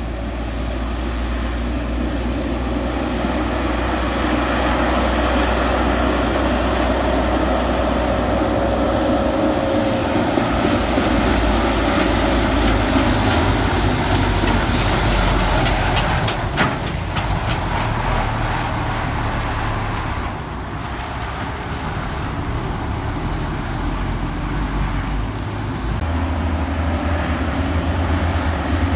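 Heavy truck's diesel engine running under load, with road and tyre noise. The engine note steps to a new pitch about ten seconds in and again near the end, and there are a few sharp clicks midway.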